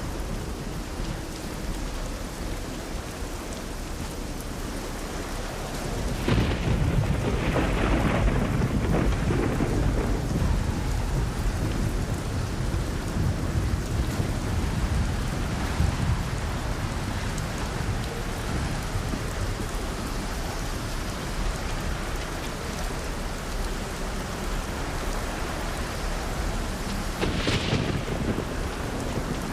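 Steady heavy rain falling, with a long rolling thunderclap about six seconds in that rumbles and dies away over several seconds, and another shorter thunderclap near the end.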